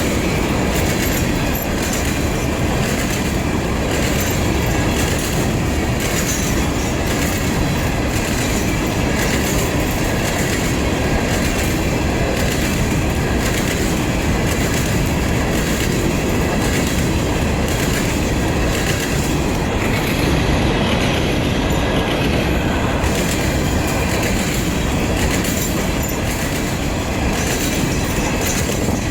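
CSX freight train's cars rolling past: a steady rumble of steel wheels on rail, with repeated clicking over rail joints and some wheel squeal.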